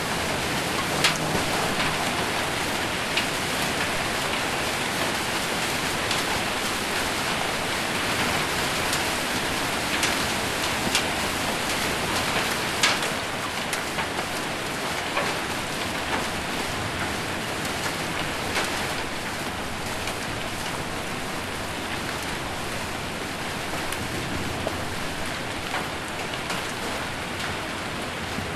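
Heavy rain with hail drumming on a roof: a dense, steady hiss with scattered sharper hits, easing slightly about halfway through.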